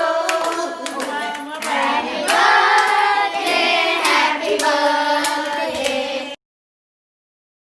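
A group of voices, children among them, singing together with hand clapping; the sound cuts off suddenly about six seconds in.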